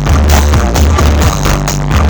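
Loud electronic dance music with a heavy, pulsing bass and a steady beat, played through a large outdoor party sound system.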